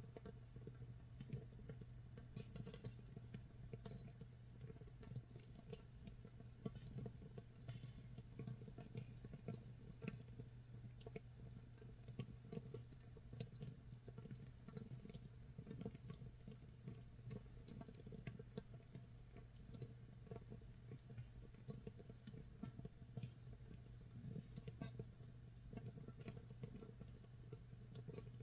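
Makgeolli starter mash (mitsul) fermenting in a jar about 24 hours in: a faint, continuous fizzing crackle of countless tiny bubbles popping, like light rain or rice crust crackling.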